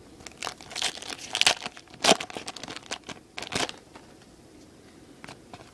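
Baseball trading cards and their foil pack wrappers being handled, with sharp crinkling and rustling for the first few seconds, loudest about two seconds in, then only a few faint light clicks.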